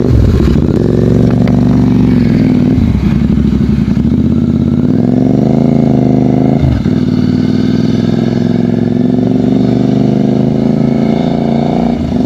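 Royal Enfield Interceptor 650's parallel-twin engine through a Gursewak aftermarket exhaust, running under load on the move. The revs rise to a gear change about seven seconds in, then hold fairly steady until another brief break near the end.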